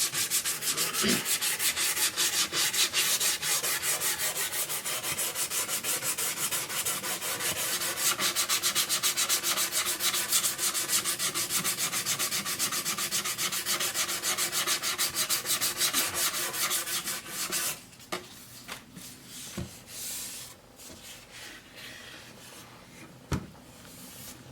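220-grit sandpaper rubbed over a wooden raised-panel cabinet door in rapid, even back-and-forth strokes. The sanding stops about 18 seconds in, followed by a couple of light knocks.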